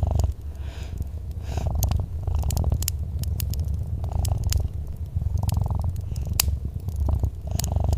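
A cat purring with a steady low rumble that swells and eases with each breath, while a fireplace crackles with sharp pops and clicks scattered throughout.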